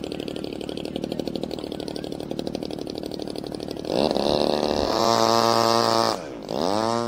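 Small model-airplane engine running with a rapid even pulsing, then revved up about four seconds in. It holds a steady high tone, dips briefly, revs up again and cuts off suddenly near the end.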